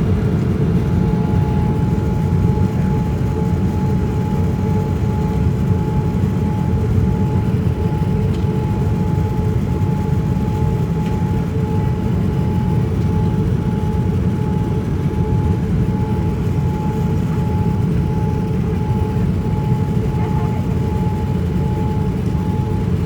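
Steady cabin noise of a Boeing 787-9 on descent: an even low rush of airflow and engines, with a thin steady tone held above it.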